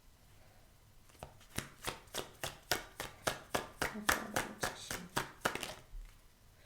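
A tarot deck being shuffled by hand, the cards slapping together in a rhythmic run of taps, about four a second, that starts a little over a second in and stops near the end.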